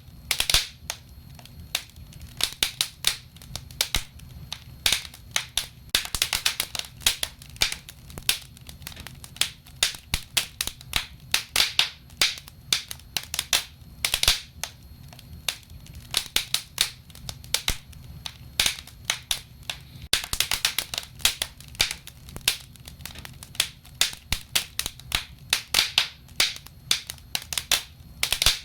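Wood fire burning in a fireplace: irregular crackling and sharp pops, sometimes in quick clusters, over a low steady rumble.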